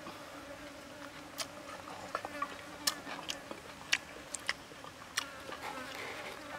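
Close-up eating sounds: chewing a bite of fried pig liver, with a string of sharp wet mouth clicks and smacks, about one or two a second. Under them runs a steady insect buzz.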